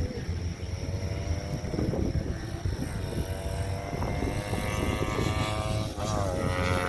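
Racing motorcycle engines running hard, the pitch climbing steadily as a bike accelerates, with a brief dip near the end before it climbs again.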